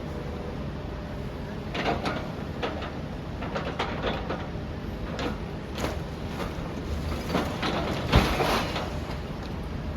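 Demolition machinery breaking up a building: irregular knocks, scrapes and clatters of masonry and rubble over a steady low rumble, with one heavy thud about eight seconds in.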